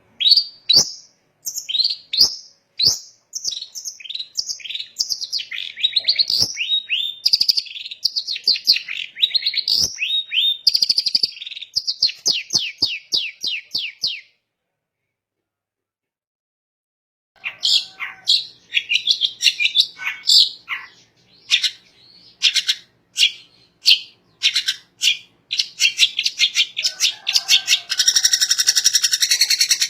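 Long-tailed shrike (cendet) singing: quick runs of sharp chirps and rising and falling whistled notes. The song cuts off completely about halfway for roughly three seconds, then resumes and ends in a dense, fast trill.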